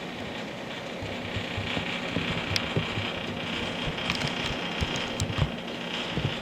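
A steady low mechanical hum with a few short clicks and knocks over it.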